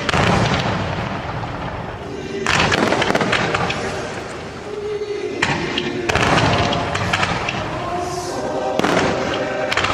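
Aerial fireworks shells bursting about every two to three seconds, each burst trailed by a spray of crackling, over accompanying show music.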